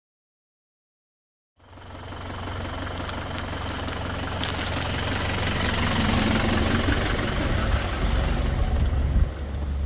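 After about a second and a half of dead silence, a four-wheel-drive vehicle's engine fades in and runs steadily with a deep, low rumble.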